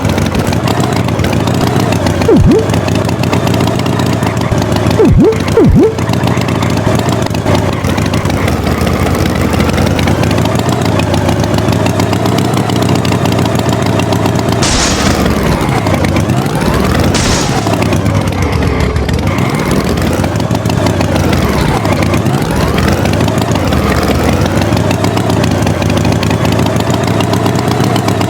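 Tractor engine running steadily, with a few short loud blips about two seconds in and again around five to six seconds. Midway the engine pitch swings down and up a few times, with two bursts of hiss.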